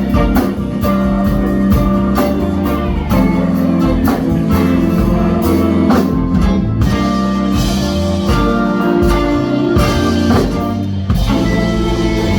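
Live band playing, a drum kit keeping a steady beat under held instrument notes.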